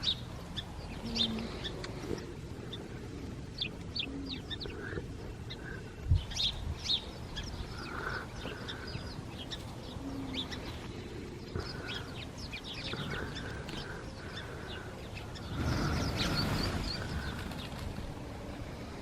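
A large flock of birds calling, many short overlapping chirps throughout, with a brief rush of noise about three-quarters of the way through.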